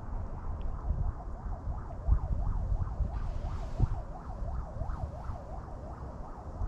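Wind buffeting the microphone in gusts, with a faint warbling tone over it that rises and falls about three times a second.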